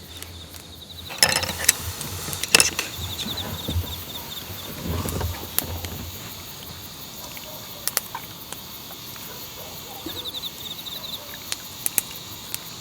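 Insects chirping in a pulsed trill in the background, with a few sharp clicks and knocks; the loudest come about a second in and again about two and a half seconds in.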